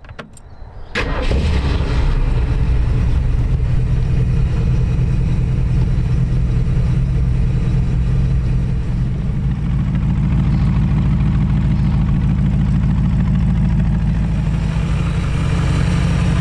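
Ford V8 engine in a 1932 Ford coupe hot rod started with the key: it fires about a second in and settles into a steady idle.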